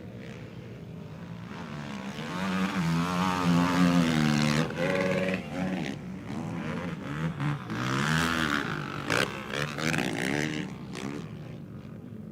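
Racing quad (ATV) engines revving hard as the quads pass, their pitch rising and falling with throttle and gear changes. The sound builds to its loudest about four seconds in, peaks again around eight seconds, then fades.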